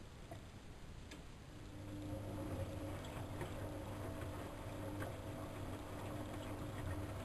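Siemens Siwamat 6143 washing machine's brushed drum motor starting up about two seconds in and then turning the drum with a steady hum, over soft sloshing and small scattered clicks.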